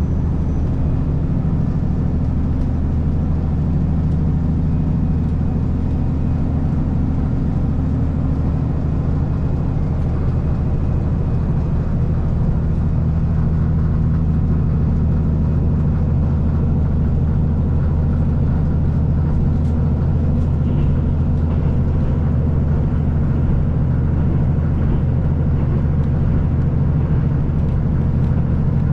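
KiHa 185 series diesel railcar under way: a steady diesel engine drone with the rumble of wheels on rail.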